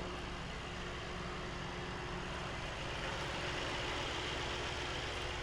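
Mercedes-AMG C63's 4.0-litre twin-turbo V8 idling steadily.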